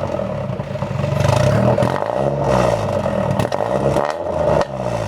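Nissan 240SX engine through a 3-inch Spec D catback exhaust, revved in quick repeated blips, its pitch rising and falling about four times with a deep exhaust note. The owner says the engine is running rich.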